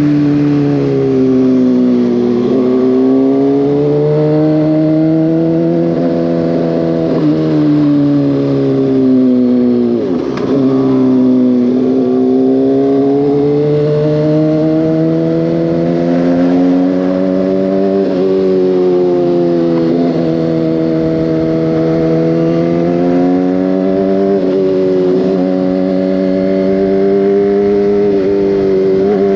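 Motorcycle engine heard from the bike while riding, its pitch climbing and falling with the throttle, with several quick breaks in pitch like gear changes.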